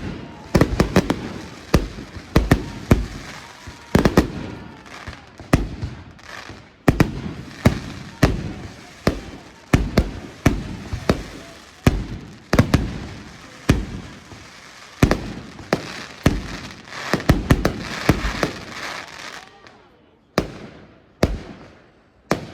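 Fireworks display: a fast run of loud shell bursts, often several a second, each trailing off in an echo, with a dense crackling spell near the end before it thins to a few single bangs.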